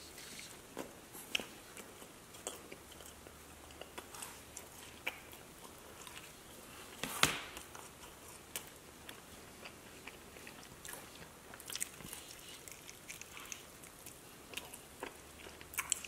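A person chewing pizza close to the microphone, with scattered soft mouth clicks. One sharper, louder click comes about seven seconds in.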